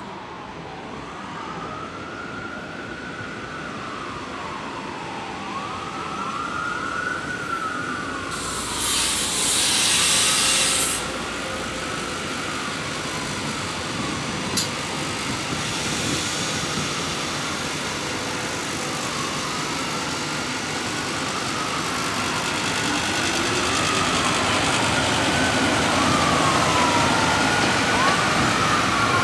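Emergency vehicle siren wailing, its pitch sweeping up and down about every three seconds and growing steadily louder as it approaches. A loud hiss lasts about two seconds near the middle, and a sharp click follows a few seconds later.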